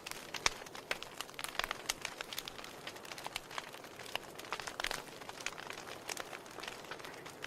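Wood fire burning in a fireplace, logs crackling with irregular sharp pops and snaps over a steady soft hiss of the flames.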